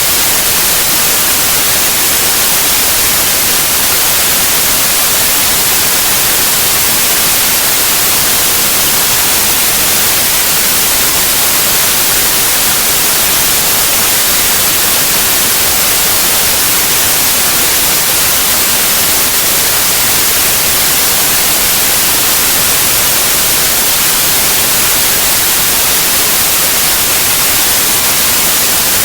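Steady white noise: an even, loud hiss, strongest in the high treble, that does not change.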